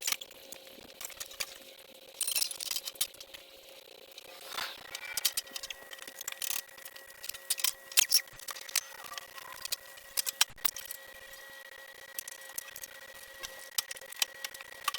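Scattered clicks, clinks and rattles of tools and small metal parts being handled, with a faint steady hum underneath.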